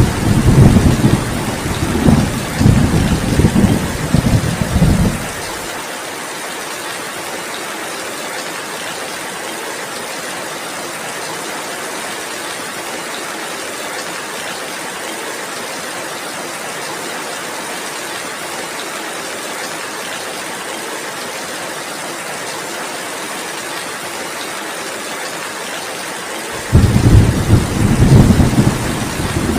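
Heavy rain falling as a steady hiss, with a rolling rumble of thunder over the first five seconds or so and another rumble breaking in near the end.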